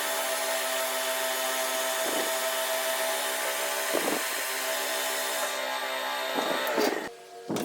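A power tool in a metalworking shop running steadily, with a brief surge about every two seconds, then shutting off about seven seconds in.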